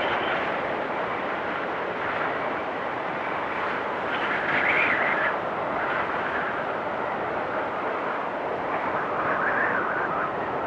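Wind storm blowing steadily with a whistling rush, swelling in gusts about four seconds in and again near the end.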